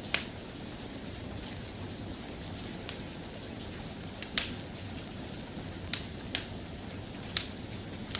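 Steady, soft rain with a handful of sharp, scattered crackles and pops from a wood fire in a fireplace.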